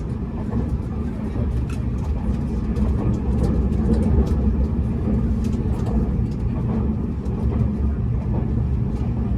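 Running noise inside the passenger car of a Tobu N100 series Spacia X electric train at speed: a steady low rumble with scattered light clicks.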